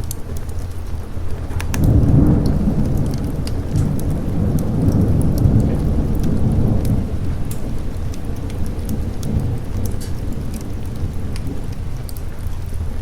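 A roll of thunder swelling about two seconds in and slowly fading over several seconds, over steady rain, with sharp crackles of a wood fire in a fireplace throughout.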